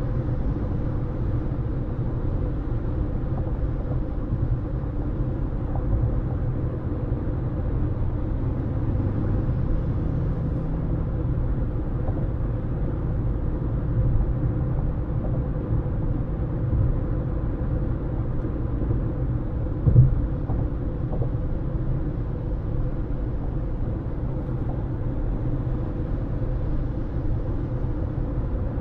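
Steady low rumble of a car driving at an even speed, tyre and road noise heard from inside the car. One brief thump stands out about twenty seconds in.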